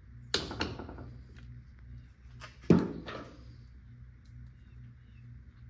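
Two pairs of sharp knocks and clanks of hard objects being handled, the first pair just after the start and the louder pair near the three-second mark, over a steady low hum.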